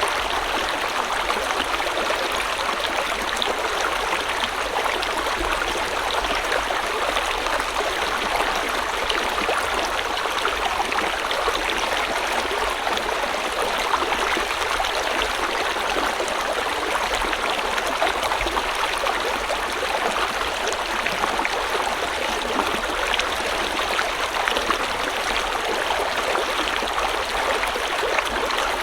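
A river flowing: a steady rush of water with fine bubbling and splashing over stones.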